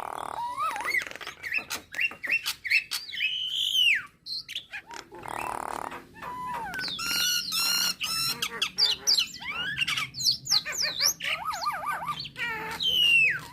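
Nias hill myna calling: a rapid, varied mix of loud whistles gliding up and down, sharp clicks and chattering notes, with a wavering trill and a falling whistle near the end.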